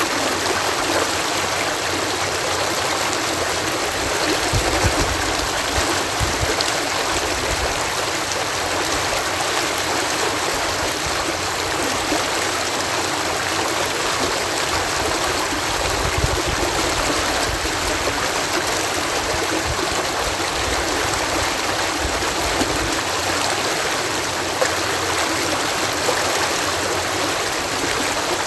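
Water cascading through a canal lock, a steady rushing pour with occasional low rumbles.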